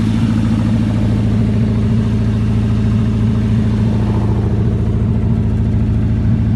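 Ferguson 20 tractor's 2.5 L V8 Land Rover petrol engine idling steadily, with an even, rapid beat.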